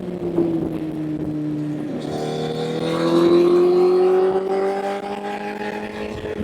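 Honda CBR1000 inline-four motorcycle engine under way: the pitch sags early on, then climbs steadily as the bike accelerates through a gear, dropping at the end as the revs fall or it shifts up.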